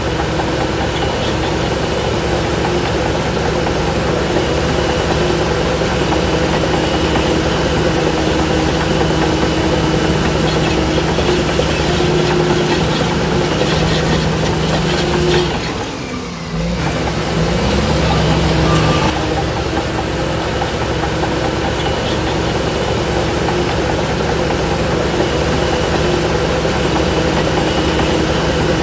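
Heavy diesel engine of earthmoving machinery working under load, running steadily, with a brief drop about halfway through before the engine picks back up with a rising pitch.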